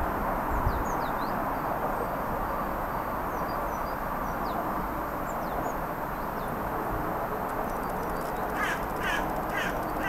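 Small birds chirping faintly over a steady rushing background. About a second and a half before the end, a bird gives four short harsh calls in quick succession, each falling in pitch.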